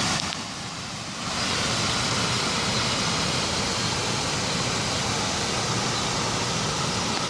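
Steady rush of falling water from a cascading waterfall fountain, dipping briefly about half a second in.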